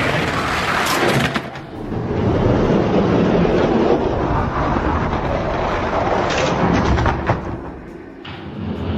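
Two Hot Wheels die-cast monster trucks rolling down a plastic drag-strip track: a continuous rumbling clatter, with a few sharp clicks shortly before it eases off near the end.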